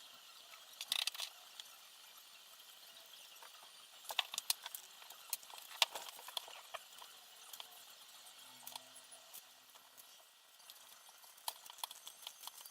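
Scattered small clicks and light taps of hard parts being handled during assembly, in clusters about a second in, between about four and six and a half seconds in, and near the end.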